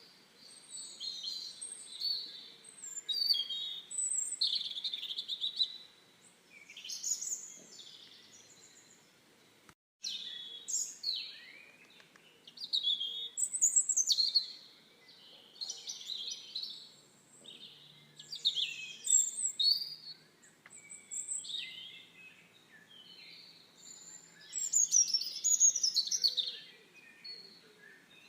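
Songbirds singing, a run of short chirping phrases one after another. The sound cuts out for a moment about ten seconds in, then the song resumes.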